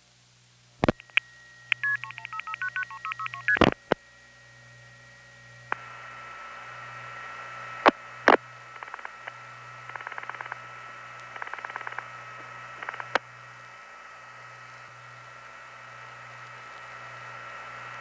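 Tape of a 1970s long-distance telephone call setting up over the analog network. There is a click, then a quick run of paired multifrequency signalling tones and a loud click. A steady tone then sits on the line while two groups of rapid dial-pulse clicks come through. The line goes quiet to hiss and low hum about 13 seconds in.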